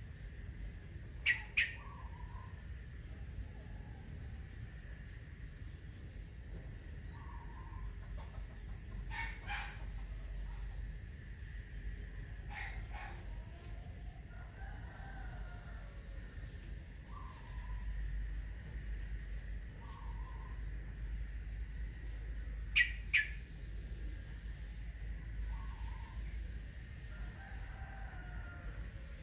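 Birds calling: many short high chirps throughout, with a loud, sharp double call twice, once about a second in and again past the middle.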